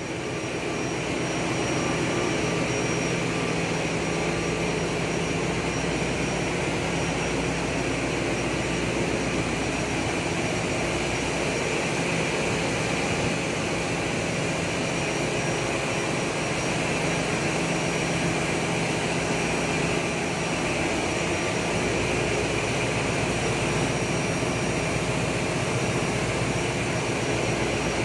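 Steady, loud machinery din of a crude tanker's engine room: a continuous roar with several steady hum tones, growing louder over the first two seconds and then holding level.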